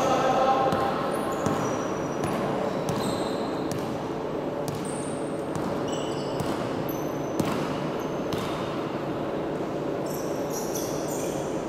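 Basketball being played: the ball bouncing on the court and sneakers squeaking in short high chirps, over a steady background of crowd noise.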